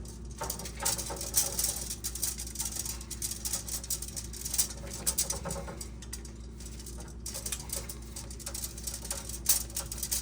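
Old tubing cutter being worked around a water line: irregular clicking and scraping of the cutter wheel and metal handle as it is turned and tightened on the tube, the cutter stiff and hard to turn. One sharper click comes near the end.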